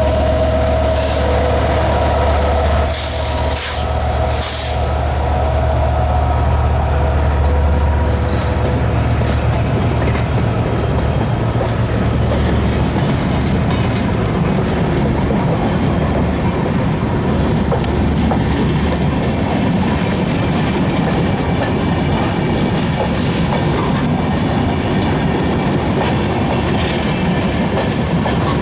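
Diesel-hauled passenger train departing: the locomotive's low engine drone at first, with a few brief hissing bursts, giving way after several seconds to the steady rumble and clatter of the coaches' wheels on the rails.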